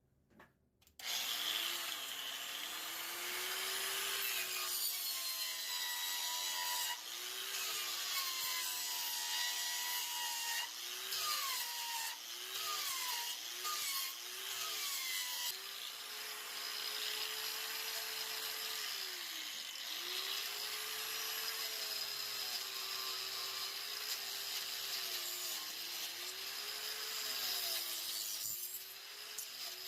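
Chicago Electric 4.5-inch angle grinder fitted with a Warrior chainsaw-chain carving disc, starting about a second in and cutting into wood with a continuous rasp. The motor's pitch sags and recovers again and again as the chain bites and is eased off.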